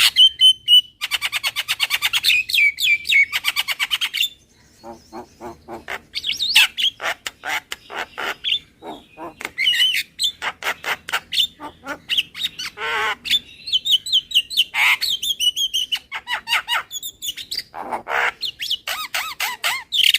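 Javan myna calling in phrases of rapid, harsh chattering notes mixed with squeaky whistles, with short breaks between phrases.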